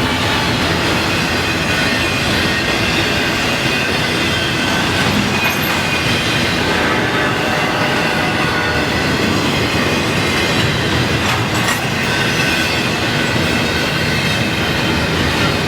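Freight train cars rolling past close by: a steady rumble and rattle of wheels on the rails, with a faint high wheel squeal running through it.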